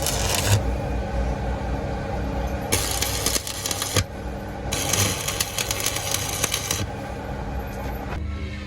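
Workshop machinery running with a steady motor hum. Two bursts of harsh, hissing metalworking noise come a few seconds in, the second one longer, with scattered clicks throughout.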